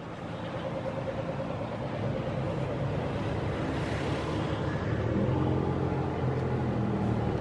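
Car engine running while the car rolls slowly, heard from inside the cabin, with a low steady note that grows gradually louder and shifts slightly about five seconds in.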